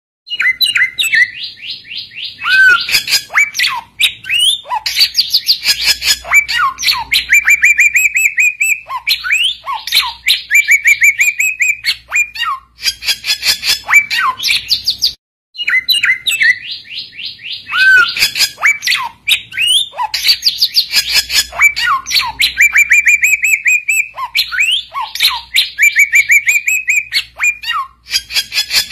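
Samyong bird singing a loud, varied song of fast chattering trills, sliding whistles and short falling notes. There is a short break about halfway through, after which the same sequence starts over, as a looped recording would.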